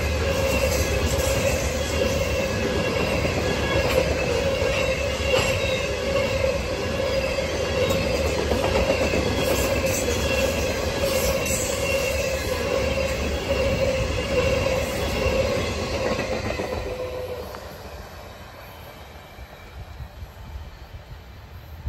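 Freight train of covered hopper cars rolling past a grade crossing: a steady rumble of wheels on rail with a steady tone over it. About 17 seconds in it drops away to a much fainter, distant rumble.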